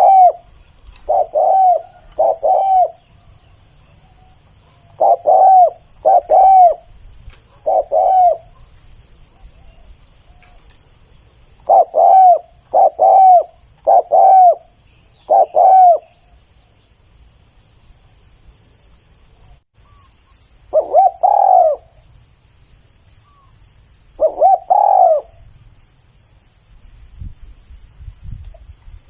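Spotted dove cooing: loud, low, arched coos about half a second each, given in pairs and runs of up to four, with a long pause in the middle and two single coos near the end. Insects trill steadily in the background.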